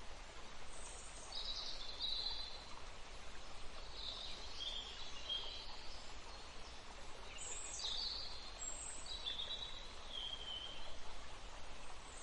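Steady rush of a flowing stream with songbirds singing over it: three short phrases, each starting high and stepping down in pitch.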